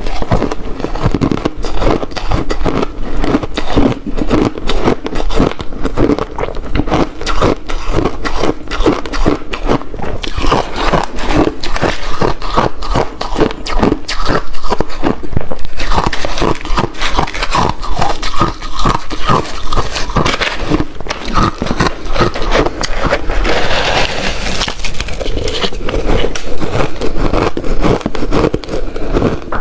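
Close-miked crunching of ice being bitten and chewed: a dense, irregular run of sharp cracks and crackles that keeps going without a break.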